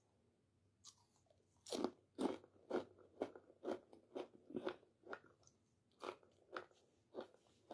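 Close crunching and chewing of a fried crab rangoon's crisp wonton shell: about a dozen sharp crunches, roughly two a second.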